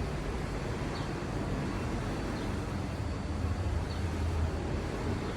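The engine of a Hyundai Sonata hybrid running steadily after an engine replacement, with a low hum. A faint high chirp repeats about once a second.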